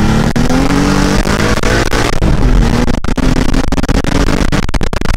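Turbocharged BMW E30's M20 2.5-litre straight-six accelerating hard, its pitch rising, dropping at a gear change about two seconds in, then rising again. In the last couple of seconds a rapid string of sharp cracks.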